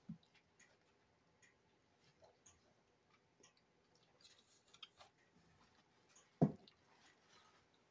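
Faint mouth sounds of someone chewing a sandwich: scattered small clicks and smacks, with one short dull thump about six and a half seconds in.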